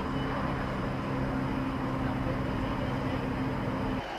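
Formula One cars' engines running steadily at a circuit, a low hum of several unchanging tones over a broad engine and ambient noise, cutting off abruptly about four seconds in.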